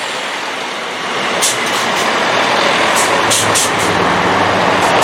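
Train passing close by, a loud steady rush of wheels and running noise, with several short high hisses or squeals about one and a half to three and a half seconds in.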